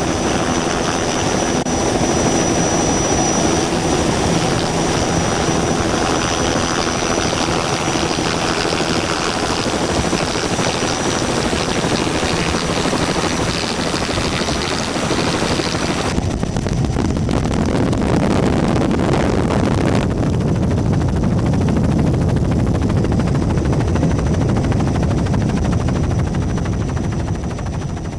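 Loud, steady engine drone. Its sound changes abruptly about 16 and 20 seconds in.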